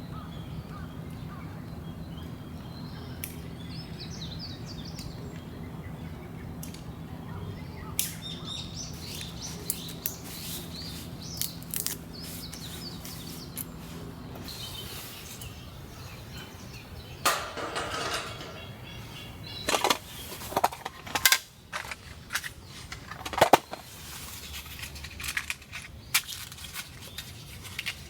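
Birds chirping faintly over a low steady hum, then from a little past halfway a series of sharp knocks and cracks, some in quick pairs.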